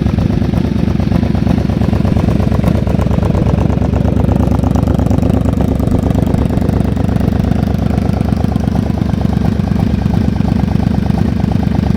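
Yamaha Vmax motorcycle's V4 engine idling steadily through its exhaust during a warm-up.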